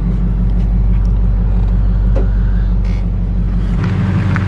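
A vehicle engine running with a steady low rumble, its note changing near the end.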